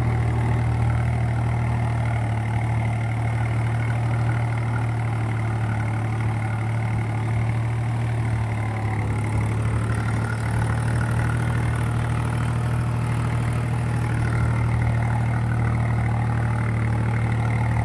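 Swaraj tractor's diesel engine running steadily at an even, low speed, with no revving.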